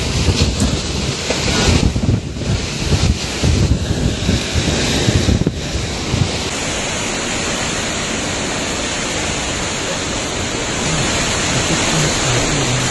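Typhoon-force wind blowing hard and buffeting the microphone, gusting unevenly for the first few seconds, then settling into a steadier rush.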